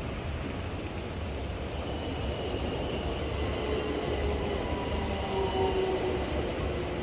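Steady hiss of rain, with a train's whine coming in about three seconds in and growing louder, its pitch drifting slowly down.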